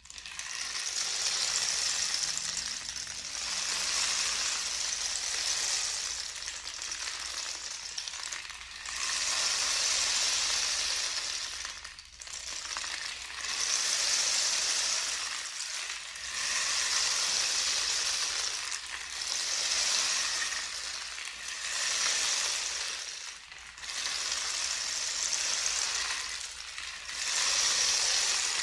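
Handmade rain stick being turned over again and again, its filling trickling down inside in a dense, rain-like hiss. The hiss comes in repeated swells of a few seconds each, with short lulls as the flow runs out and the stick is flipped.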